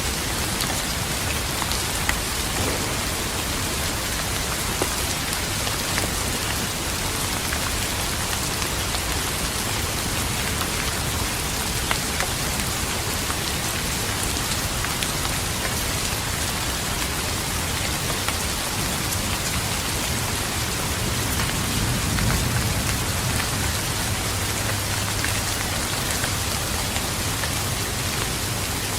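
Steady rain falling, with scattered sharp drop ticks over an even hiss. A low rumble of distant thunder swells and fades in the second half.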